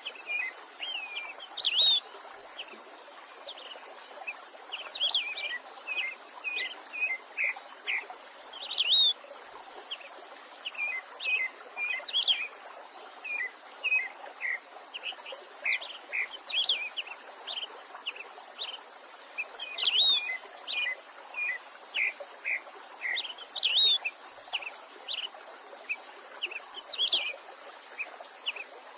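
Songbirds singing a continuous run of short, quick chirping notes, with a louder rising-and-falling note every few seconds, over a steady hiss of running creek water.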